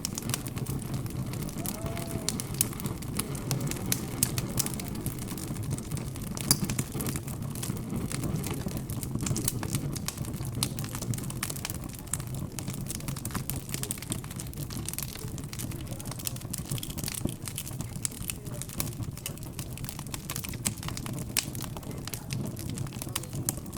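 Wood fire crackling, with frequent irregular small snaps and pops.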